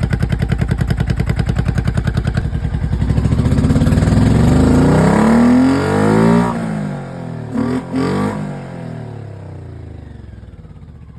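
1986 Honda VT700C Shadow's V-twin engine with an aftermarket exhaust, running warm at an even, pulsing idle. It is revved up over a few seconds and let fall back, blipped once more briefly about eight seconds in, then settles back to a quieter idle.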